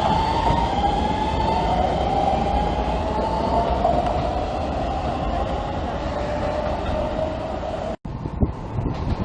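Keisei Skyliner express train passing through the station without stopping: steady rolling rail noise with a high whine that slowly falls in pitch. It cuts off suddenly near the end, giving way to wind on the microphone.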